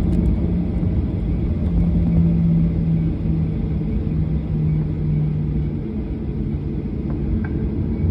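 Airliner cabin noise on the ground before takeoff: a steady rumble of the jet engines at idle, with a low hum that weakens about six seconds in.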